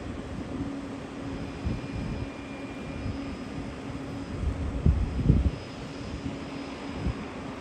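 de Havilland Otter floatplane's engine droning steadily on the water before its takeoff, with wind gusting on the microphone about five seconds in.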